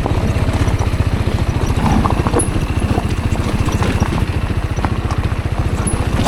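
Rieju Aventura 125's single-cylinder engine running at low, steady revs, its exhaust pulses even and unchanging, with a few light knocks on top.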